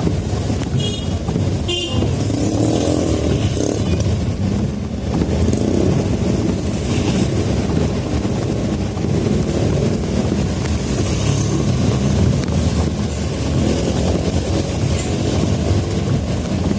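Road traffic with motorcycle and car engines running past, and a brief horn toot about a second in.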